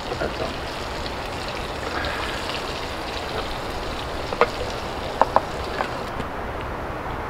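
Food frying in a pan over a campfire: a steady sizzle, with a few sharp crackles about four to six seconds in.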